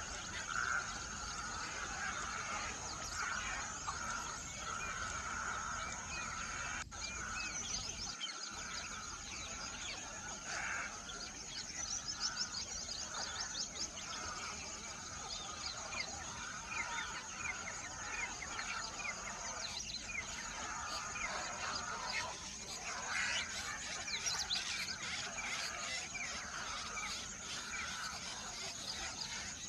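A dense chorus of many small birds chirping and twittering at once, calls overlapping throughout, over a steady high hiss.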